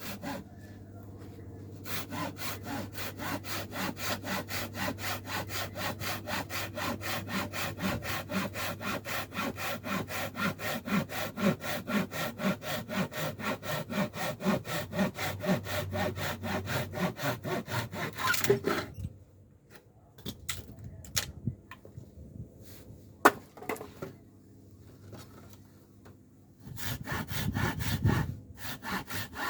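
Hand saw cutting scrap wood in quick, even strokes, about three a second. The sawing stops after about eighteen seconds, a few knocks and clicks of wood being handled follow, and the sawing starts again near the end.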